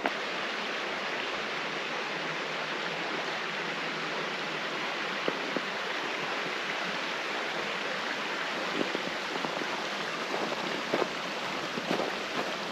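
Mountain stream flowing: a steady, even rush of running water, with a few faint knocks in the second half.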